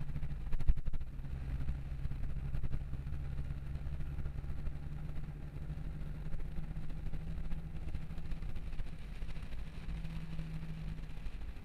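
Car engine running while driving, heard from inside the cabin: a steady low hum, with a brief cluster of knocks under a second in.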